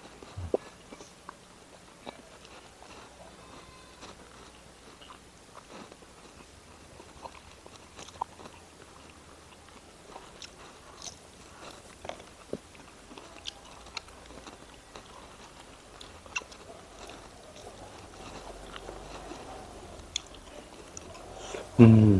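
A person chewing and biting food close to the microphone: scattered small crunches, wet mouth clicks and smacks. Near the end, a short loud hum of the voice with a falling pitch.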